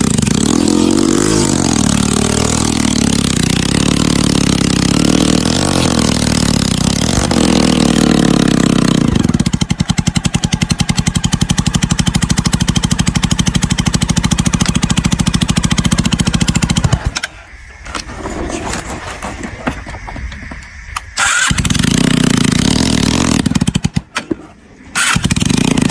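Motorcycle engine running under load, its pitch rising and falling as it revs, then settling into a steady low-speed putter for several seconds before cutting off suddenly. Two shorter stretches of the engine come back near the end.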